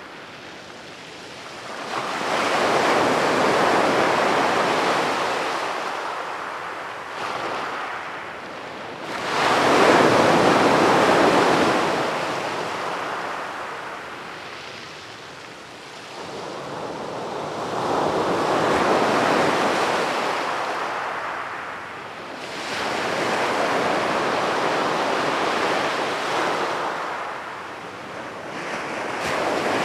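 Sea waves breaking and washing up a beach, swelling and fading in long surges every several seconds, the loudest wave about ten seconds in.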